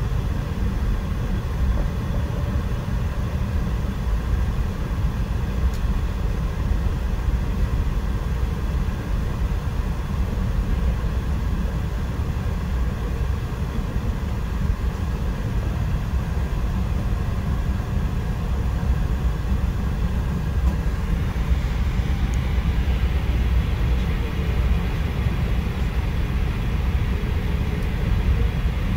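Running noise of an E4 series MAX Shinkansen heard inside the passenger cabin: a steady low rumble, with a hiss higher up that grows about twenty seconds in.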